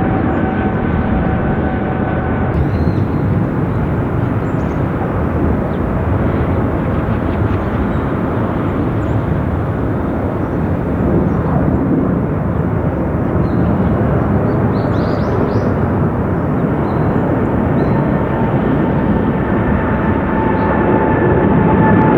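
Boeing 777 jet engines running loud and steady, a broad rumble with a high whine. The whine drops out a couple of seconds in and a different one comes in near the end, as the sound swells slightly.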